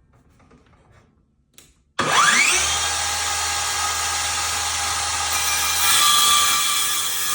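Ryobi 18V brushless circular saw with a 6.5-inch blade switched on about two seconds in: a rising whine as the blade spins up, then it runs steadily at speed, growing a little louder later on.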